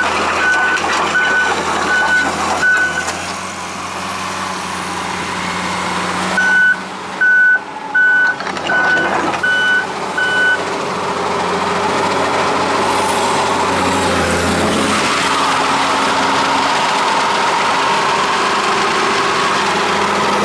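Komatsu PC200LC-6 hydraulic excavator running, its travel alarm beeping a little under twice a second in two runs of a few seconds over the diesel engine and hydraulics. After the beeping stops, the engine and hydraulics keep working under load with a steady whine.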